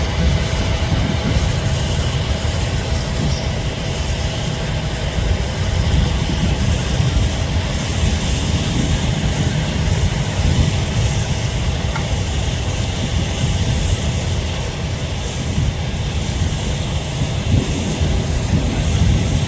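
Airbus A380 jet engines at taxi power: a steady, loud rumble with a faint steady whine.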